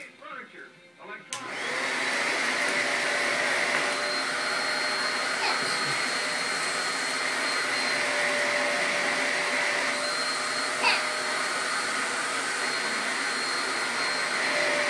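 Household vacuum cleaner switched on with a click about a second in, then running steadily: a constant rushing of air with a steady motor whine.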